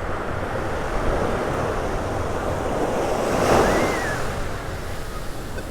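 Ocean surf washing up the beach, with wind buffeting the microphone; a wave swells in and breaks loudest about three and a half seconds in.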